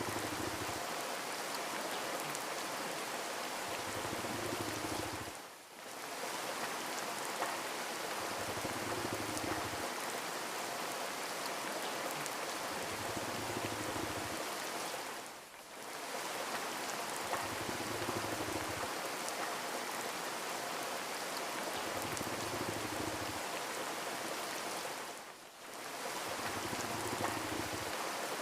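Steady rainfall, an even hiss with scattered faint drop ticks. A low hum swells and fades every four to five seconds, and the whole sound dips briefly three times, about ten seconds apart.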